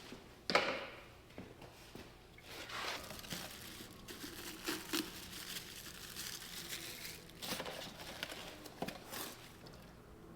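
Rustling and crinkling with scattered clicks and knocks, as of things being handled during work on a machine; the loudest rustle comes about half a second in.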